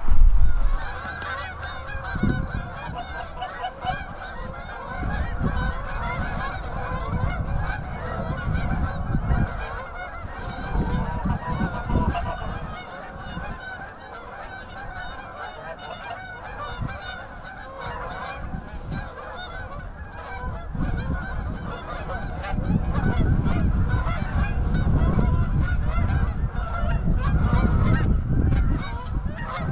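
Many Canada geese honking at once, a dense, continuous chorus of overlapping calls that swells and fades.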